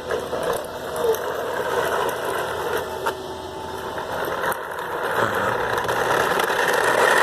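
Toy garbage truck's plastic wheels rolling over a concrete driveway: a steady, gritty rattling rumble with small clicks, getting a little louder toward the end.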